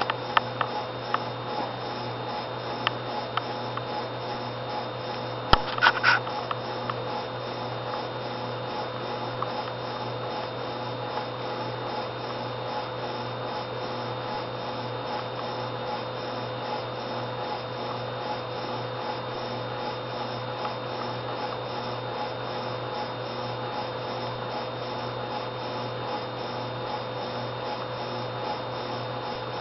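Steady, unchanging electrical hum with a few sharp clicks and a short crackle about six seconds in.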